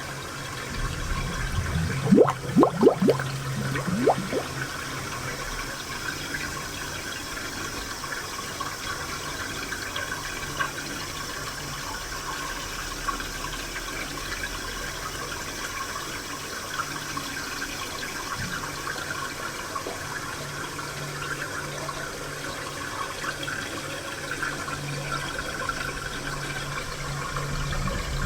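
Spring water flowing and trickling steadily. A few louder gurgles come about two to four seconds in.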